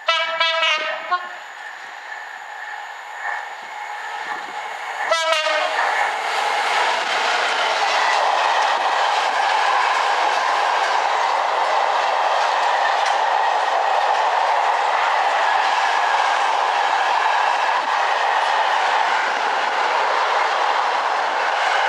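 Class 66 diesel locomotive's horn sounding the 6-tone call, heard as two short blasts, one in the first second and another about five seconds in; the horns sound dodgy, in need of a fix. From about six seconds the long train of loaded car-carrier wagons rolls past steadily, its wheels clattering over the rail joints.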